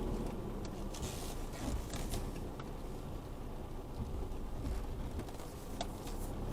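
Isuzu D-Max V-Cross pickup's engine running at low revs, heard from inside the cabin, with occasional short clicks and rattles as the truck crawls over rough ground.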